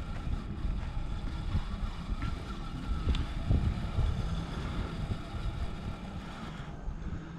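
Wind rumbling on the microphone, with a faint intermittent whine from the Redcat Scout II Gen8 V2 crawler's electric motor as it works over rocks.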